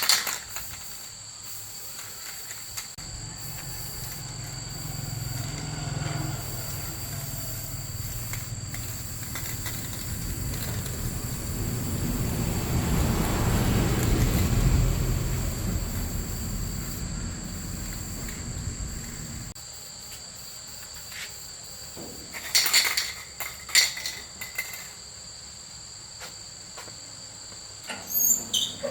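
A low mechanical hum builds, peaks and stops about two-thirds of the way through, with steady high-pitched insect chirring throughout. A few short clatters come near the end.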